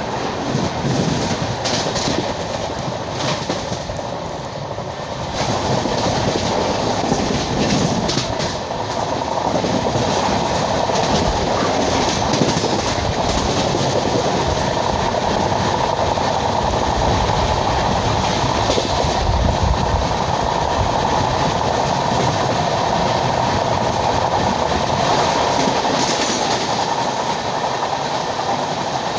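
LHB passenger train running along the track: a steady rumble of wheels on rail with a few clicks, growing louder about five to six seconds in and holding there.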